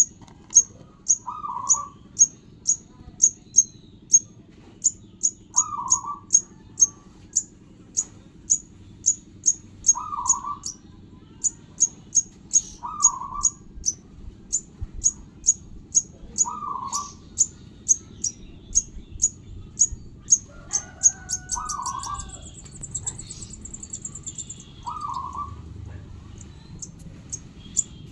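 Young sogon bird calling: short high chirps repeated about twice a second, with a lower call every couple of seconds and a brief rapid trill about two-thirds of the way through.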